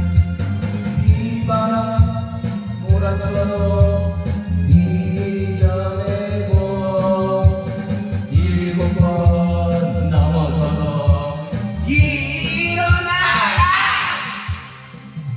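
Rock ballad song: a singer holds long notes over bass and drums. About twelve seconds in, the voice climbs into a high, wavering run, and then the music drops away briefly near the end.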